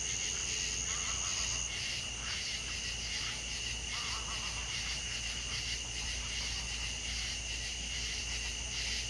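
Natural ambience of insects trilling steadily at two high pitches; the higher trill stops a couple of seconds in. Short, faint calls sound now and then beneath it.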